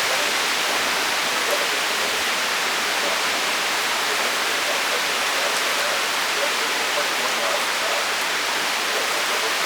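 Torrential thunderstorm rain pouring down in a steady, unbroken hiss.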